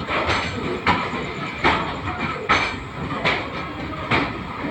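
Wheels of an LHB passenger coach rolling over the track at speed: a sharp clack about every three-quarters of a second over a steady rumble.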